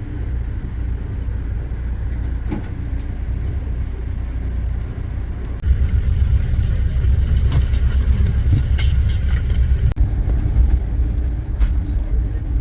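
Steady low rumble of a moving vehicle, growing louder about six seconds in, with faint rapid high ticking near the end.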